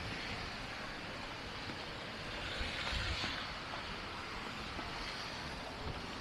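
Street ambience on a snowy city street: a steady hiss of traffic that swells about three seconds in, like a car passing on a wet road.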